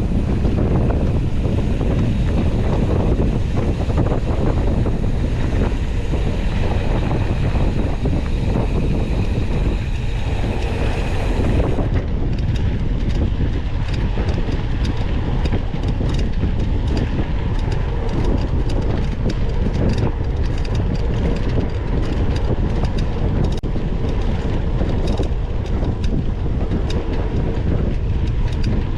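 Wind buffeting the microphone of a mountain bike's onboard camera over a steady low rumble from the moving bike. From about twelve seconds in, frequent sharp clicks and rattles join in as the bike rolls along.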